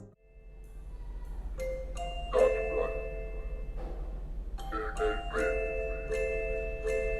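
Music played back through a portable Bluetooth speaker: after a brief gap, a soft passage of held, bell-like mallet notes with no beat, new notes entering every few seconds.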